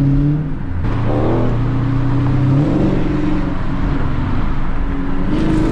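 Car engine and cat-deleted exhaust of an E85-tuned car, heard from inside the cabin while driving. A loud, steady drone that drops to a new pitch about a second in and climbs again near three seconds.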